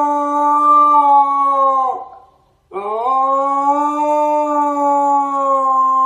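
A dog howling: one long held howl that slides down in pitch and breaks off about two seconds in, then after a short breath a second howl that rises back up and holds steady.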